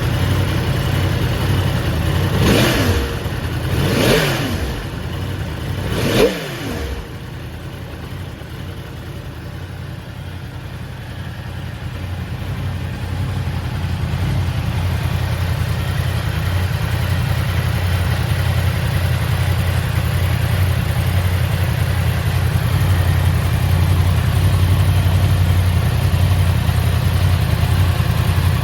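Yamaha YZF-R1's inline-four engine revved three times in quick succession, each blip rising and falling back, then idling steadily.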